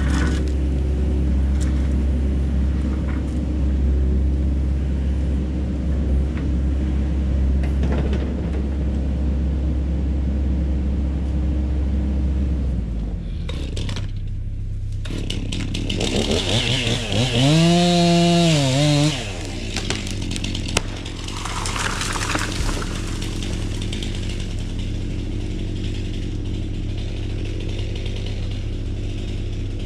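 A steady low engine hum for the first dozen seconds shifts to a different steady pitch about halfway through; a chainsaw then revs up and cuts for about three seconds, its pitch rising and falling, followed by a shorter burst a few seconds later.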